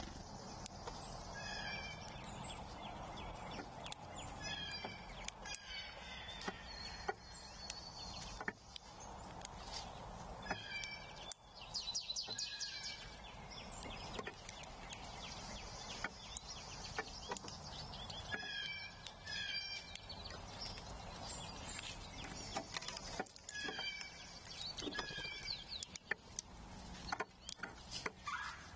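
Birds calling outdoors. A short series of notes steps down in pitch and repeats every few seconds, with scattered small clicks over a steady background hiss.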